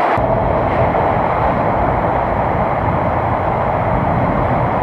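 A train running on the tracks overhead, heard from the river culvert beneath the station platforms: a steady, deep rumble that starts suddenly and stays even.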